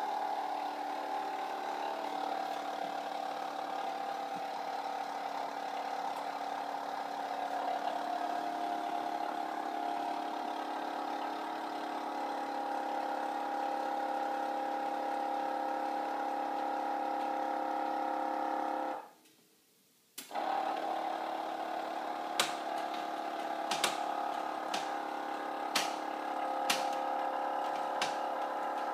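Can-Am Renegade 800R XMR ATV's V-twin engine running steadily, with a break of about a second partway through. After the break, a series of sharp clicks sounds over the engine.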